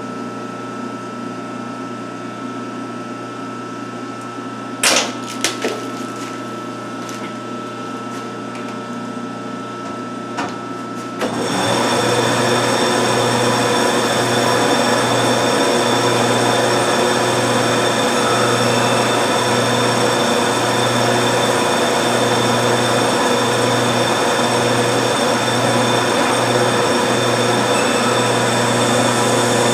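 1952 Wade 7 turret lathe running with a steady hum, with a few sharp metallic knocks about five seconds in and again near ten seconds. Just after eleven seconds it turns markedly louder and rougher, with a pulsing low hum, and keeps going like that.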